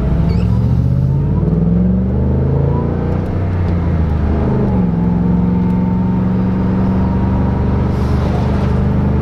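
Ford Shelby GT500's supercharged V8 pulling under acceleration, heard from inside the cabin. The revs climb, dip briefly about three seconds in, climb again, then hold steady from about five seconds.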